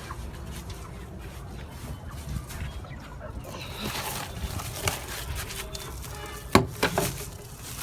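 Chickens clucking in their cage, with two sharp knocks close together near the end.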